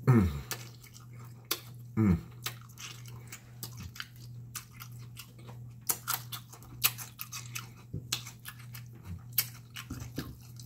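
Close-miked chewing and smacking of food, with many short wet clicks and crunches. It includes a bite into a fresh jalapeño pepper about six seconds in. Two short falling vocal hums come at the start and about two seconds in.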